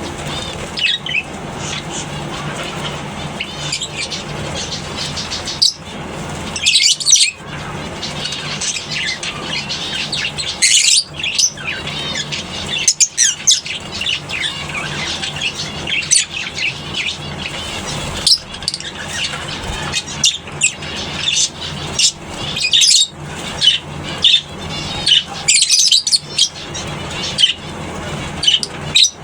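A colony of lovebirds chattering: many overlapping short, shrill chirps and calls, constant and dense, with a steady low hum underneath.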